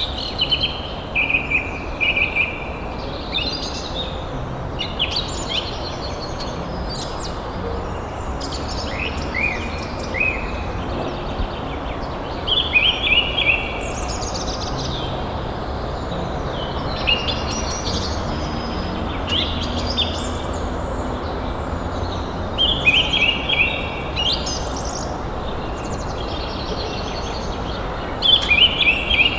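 Songbirds singing short, repeated chirping and trilling phrases every few seconds over a steady background hiss.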